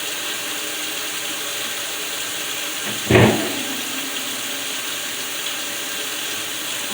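Steady hiss with one knock about three seconds in, as a cleaned refrigerator door rail is set back into the fridge.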